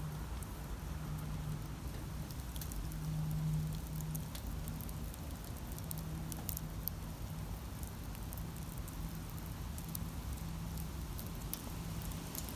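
Wood campfire crackling, with many small irregular sharp pops over a soft steady hiss. A low steady hum runs underneath, fading in and out.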